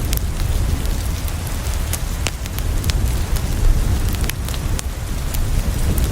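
Steady heavy rain with a deep low rumble, and irregular sharp pops and crackles of a wood fire scattered through it.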